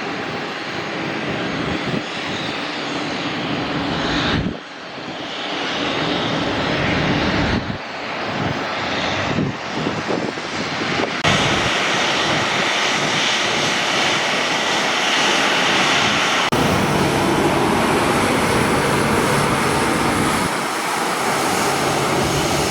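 Airliner engines running, a steady, loud noise that changes abruptly several times as one recording is cut to the next.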